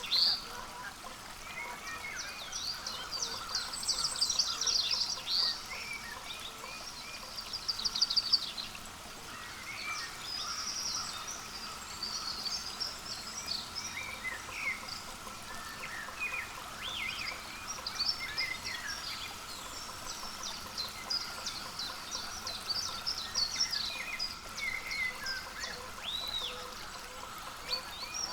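Several small songbirds chirping and calling throughout, with quick high trills and short rising and falling notes, over a steady faint background hum.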